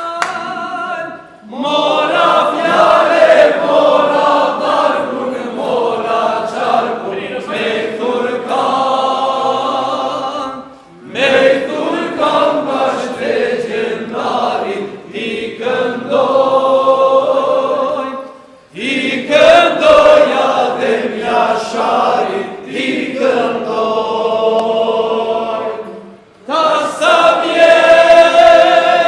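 A group of voices singing unaccompanied, in long phrases of several seconds each with short breaks between them.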